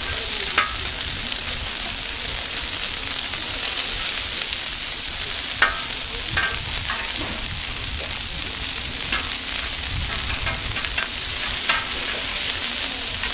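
Donggeurangttaeng, small Korean meat-and-vegetable patties, sizzling in oil on a griddle: a steady frying hiss, with a few short sharp ticks scattered through it.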